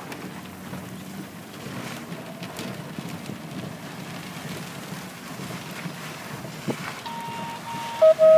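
Wind buffeting the microphone: a steady rushing noise with a low rumble. Near the end a faint steady tone sounds, then loud repeated electronic beeps begin.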